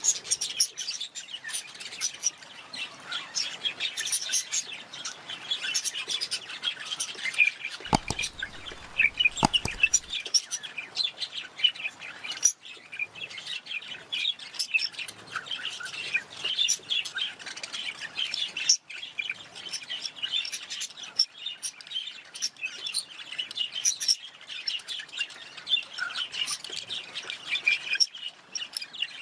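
Budgerigars chattering, a continuous stream of quick overlapping chirps and warbles. Two sharp clicks sound about eight and nine and a half seconds in.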